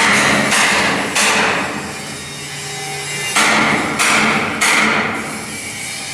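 Hammer blows on steel, two runs of three strikes about half a second apart, each ringing briefly.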